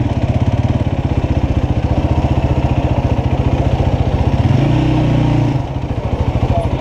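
Motorcycle engine running while riding, with a fast, even exhaust beat. About four and a half seconds in the engine revs up briefly, then eases off a second later.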